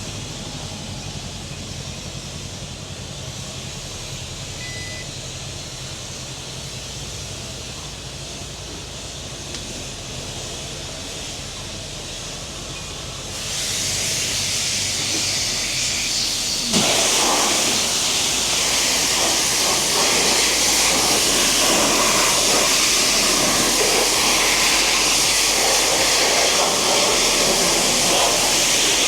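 Water spraying from a washer nozzle. A high hiss starts about halfway through and a few seconds later widens into a louder, steady rush of spray.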